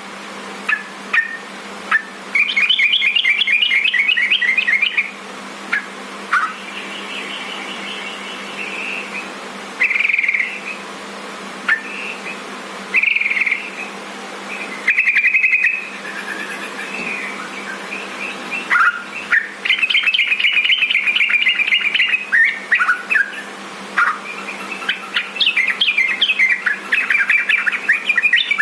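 Yellow-vented bulbul (trucukan) singing: fast chattering trills lasting a few seconds, about a dozen notes a second, three times, with short single notes between them, over a low steady hum.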